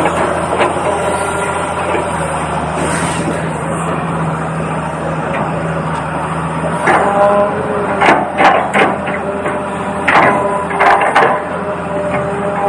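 Toy RC excavator working: a steady motor hum with several held tones, and a run of sharp clacks and knocks from about seven to eleven seconds in.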